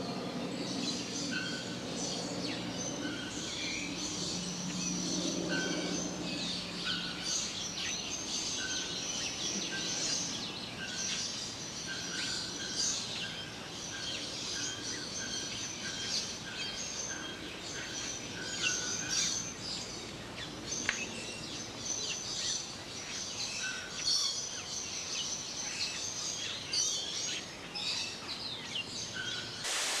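Many birds chirping and calling together, high twittering throughout, with one bird repeating a short clear note about once a second over the first two-thirds.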